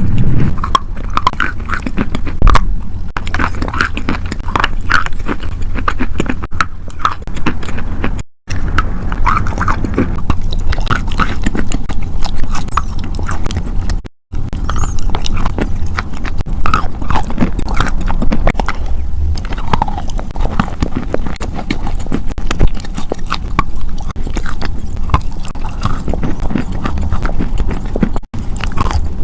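Close-miked crunching: dense, irregular crackles and snaps over a steady low rumble, broken twice by a brief cut to silence.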